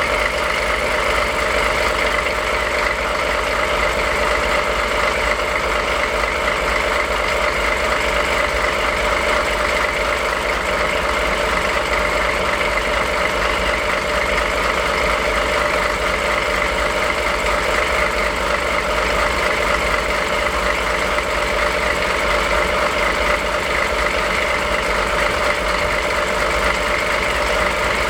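Diesel locomotive DE10's V12 diesel engine idling steadily after start-up, a constant low running sound with no change in speed.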